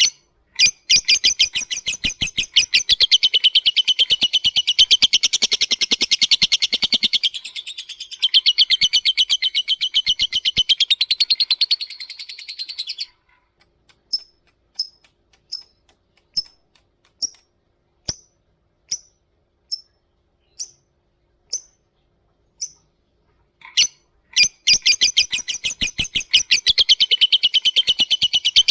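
Lovebird giving a long, rapid chattering trill (the 'ngekek') for about twelve seconds. It then switches to single sharp ticking chirps about one a second (the 'ngetik'), and goes back into the long trill near the end.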